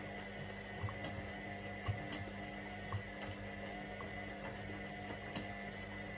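Indesit IWC 71252 washing machine running a cotton wash: a steady motor hum with a soft knock about once a second as the drum turns.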